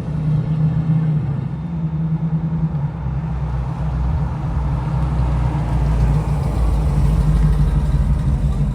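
A car engine running steadily, with a low, even drone.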